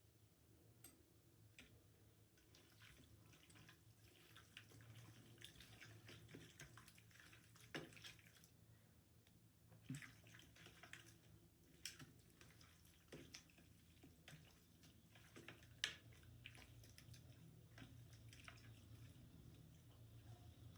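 Faint water sounds: scattered drips and small splashes, with a few sharper clicks, over a low steady hum.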